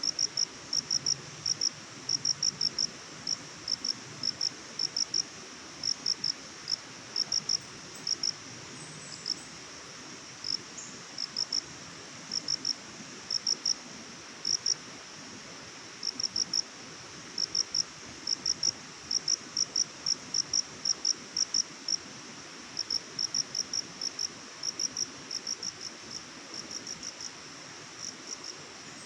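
A cricket chirping: short, high chirps in groups of two to four pulses, repeated over and over with brief gaps, over a steady background hiss.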